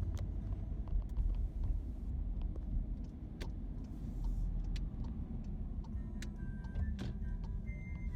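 Steady low rumble like a car on the road, with scattered light clicks; faint steady tones come in about six seconds in.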